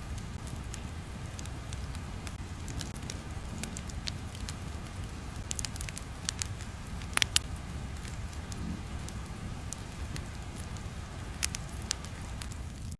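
Steady crackling ambience: a low rumble under scattered sharp pops and crackles, with a few louder pops about seven seconds in and again near the end.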